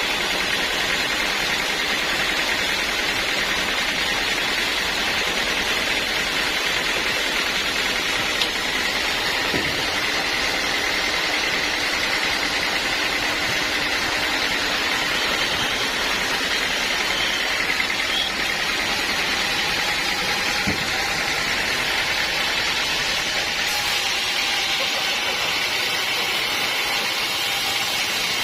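Sawmill band saw running steadily, an even machine noise with a faint high whine.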